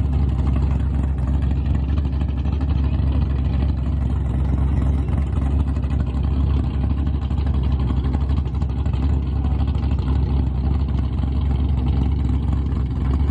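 Car engine running steadily close by, a low, even sound with no revving.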